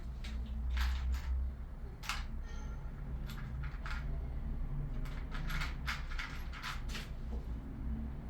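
Irregular sharp metallic clinks and knocks, about a dozen, bunched together near the end, from small tools or plumbing parts being handled, over a steady low rumble.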